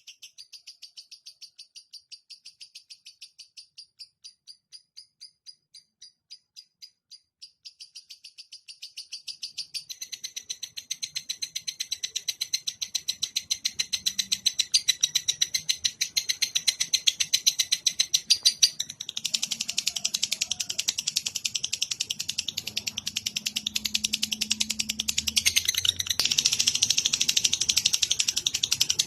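Recorded songbird call used as a tutor track: a high-pitched pulsed call that begins as a faint series of about three pulses a second. From about ten seconds in it becomes a louder, fast, continuous trill, and near twenty seconds it turns into a harsher, rasping chatter.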